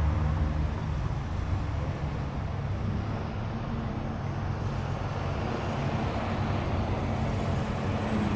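A car engine running at low revs, a steady low drone that shifts slightly in pitch about three seconds in, as a car rolls in.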